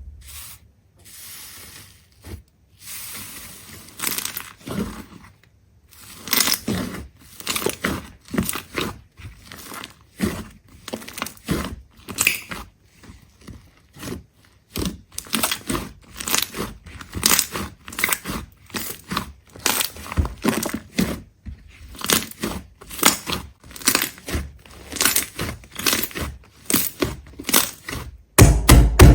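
Repeated crisp crunching and crackling, short strokes about one to three a second, with a heavier low thud near the end.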